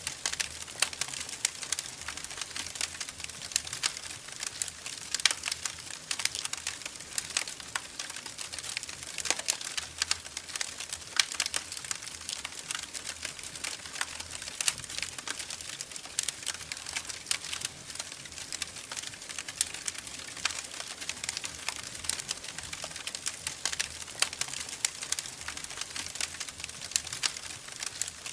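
Wood fire crackling in a fireplace: a constant run of irregular sharp pops and snaps over a soft hiss.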